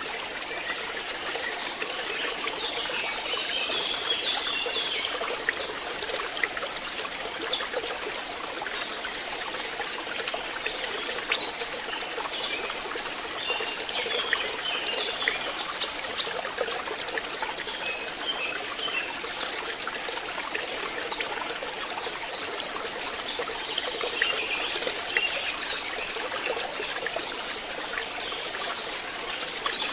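Pond water trickling steadily, with clusters of bird chirps coming and going and a few sharp clicks around the middle.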